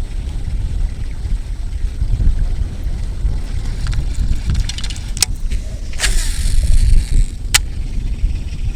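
Strong wind buffeting the microphone, a steady low rumble, with three sharp clicks in the second half and a short hiss after the middle one.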